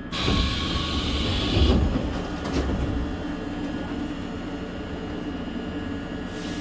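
Seoul Subway Line 1 electric train running on the track: a steady rumble with a constant hum. A loud hiss sounds over it for the first two seconds or so, then stops.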